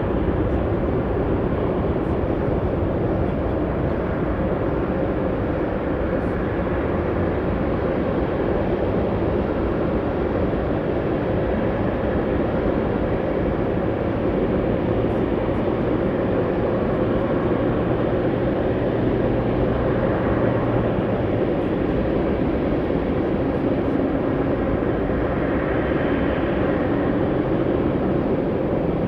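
Jet aircraft engines heard at a distance, a steady even rumble with a low hum that comes through for several seconds in the middle.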